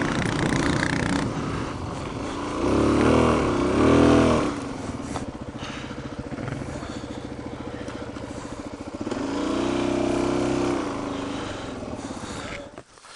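Suzuki DR-Z400 dual-sport motorcycle's single-cylinder four-stroke engine revving up and down twice, then running at low revs, picking up again for a couple of seconds, and cutting out near the end.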